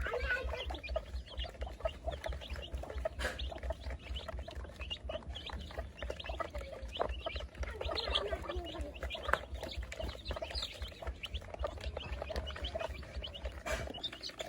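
A flock of baby chicks peeping busily, many short overlapping chirps, over a low hum that stops near the end.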